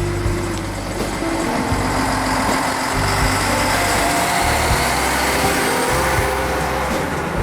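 Diesel train engine running steadily, with its low drone shifting pitch in steps.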